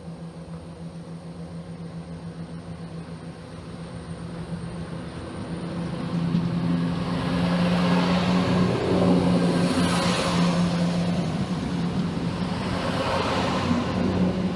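London Midland diesel multiple unit approaching and running past along the platform: a steady diesel engine hum grows louder over the first six seconds, then wheels rushing on the rails join it as the coaches go by.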